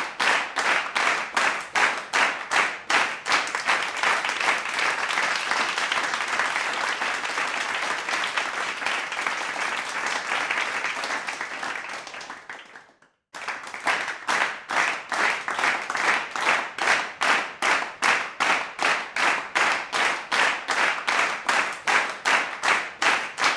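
Crowd clapping in time, about three claps a second, swelling into continuous applause for several seconds. The sound drops out abruptly for a moment just past the middle, and the rhythmic clapping then picks up again.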